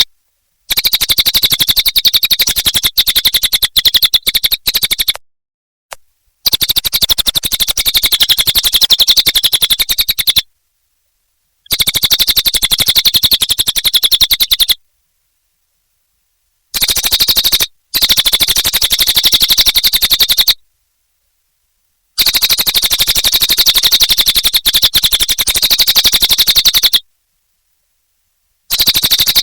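Cililin songbird singing a fast, dense chattering song, loudest in a high band. It comes in runs of a few seconds that stop and restart abruptly with dead silences between them, about six times.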